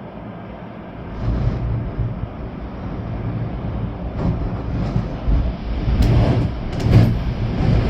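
Storm-force wind gusting with rain, buffeting the microphone with a heavy rumble. The gusts strengthen about a second in and swell further near the end.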